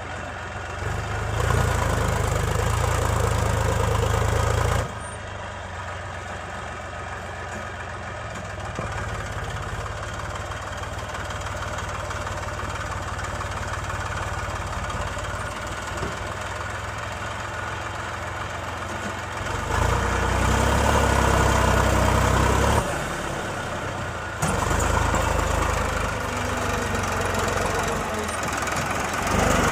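Heavy diesel engine of a working machine running, jumping between a lower and a louder level in sudden steps several times.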